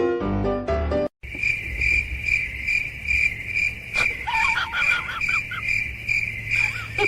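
Short piano music that cuts off about a second in, then an insect, such as a cricket, chirping in an even high pulse, two to three chirps a second; a few brief squeaky calls come in about four seconds in.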